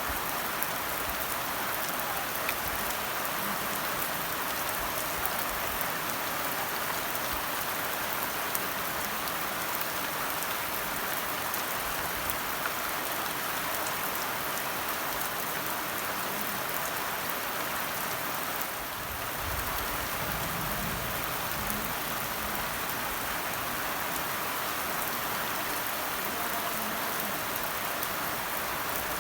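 Steady rain falling, many small drops pattering on surfaces. There is a brief dip about two-thirds of the way through, followed by a faint low rumble.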